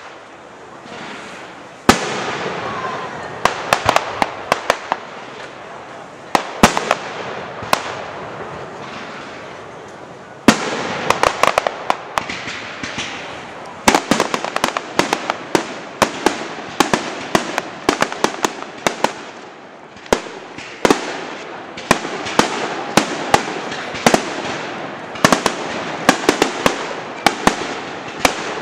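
Fireworks going off in a display: a series of loud sharp bangs a few seconds apart, each followed by a flurry of rapid crackling and popping.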